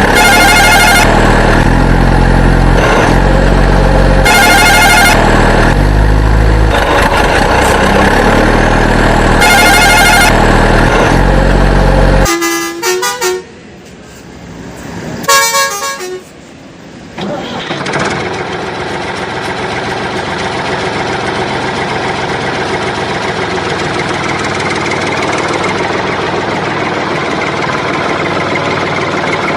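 Vehicle horn honking in short bursts every few seconds over a loud, low, stepped sound. About halfway through that stops, a couple more honks follow, and then a steady engine-like running sound carries on.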